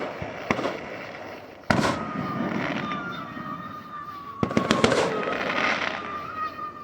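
Fireworks going off: a sharp crack about half a second in, a loud bang a little before two seconds, and a quick cluster of bangs around four and a half seconds, with crackling in between. A steady high whistle starts with the loud bang and holds on, falling very slightly in pitch.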